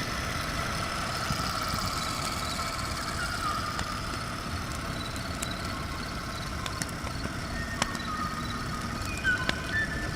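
A steady low mechanical rumble, like an engine running, with a few faint short chirps and scattered sharp clicks, the loudest clicks near the end.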